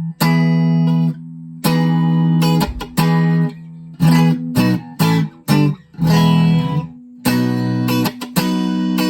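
Schecter OL-PT-TH thinline electric guitar played through a small VOX Mini5 practice amp: a run of strummed chords, each struck sharply, held for a moment and then cut off short, with brief gaps between them.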